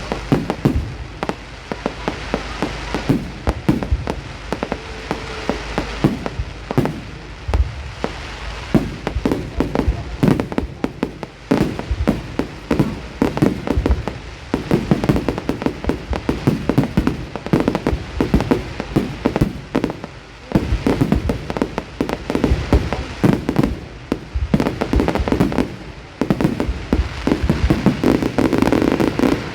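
Fireworks exploding in a rapid, near-continuous barrage of bangs and pops.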